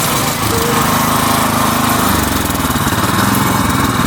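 Mini tractor's small engine running hard with a steady rapid pulse, growing louder in the low end about two seconds in, while the stuck tractor is being pushed free.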